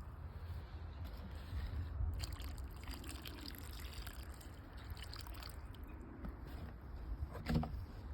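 Water trickling, with scattered small clicks and one louder knock near the end over a steady low rumble.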